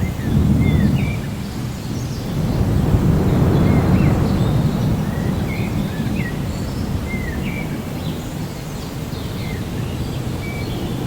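Thunder rolling over steady rain, swelling about half a second in and again a few seconds later, while birds give short chirps throughout.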